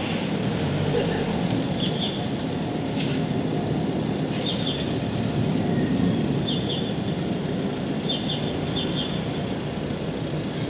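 A songbird repeating short, quick chirping phrases every second or two, over a steady low rumbling background noise.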